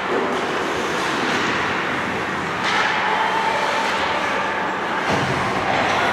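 Ice hockey game ambience in a rink: a steady wash of noise that grows a little louder about two and a half seconds in.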